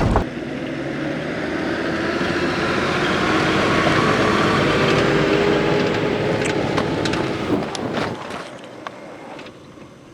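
Car running on a road, a steady noise with a faint hum, with a few clicks about two-thirds of the way through before the noise fades away near the end.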